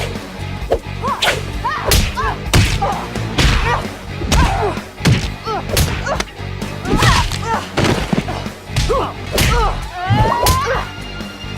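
Fight-scene sound effects: a rapid series of punches, kicks and swishing strikes hitting in quick succession, over a score with a steady low bass.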